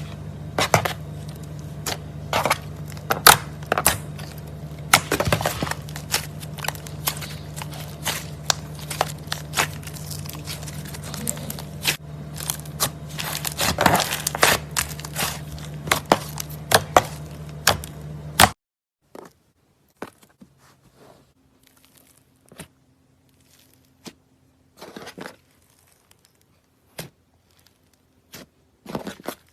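Slime mixed with clay being squeezed and kneaded by hand: a dense run of crackling pops and clicks over a steady low hum. About two-thirds of the way in it cuts off suddenly, and sparser, quieter pops follow.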